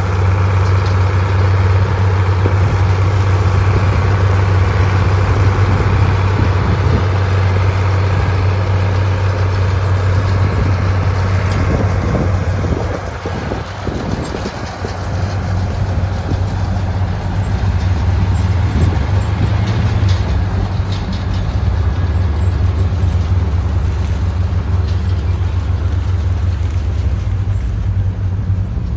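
Farm tractor's diesel engine running steadily with a deep hum, easing off briefly about halfway through before settling back.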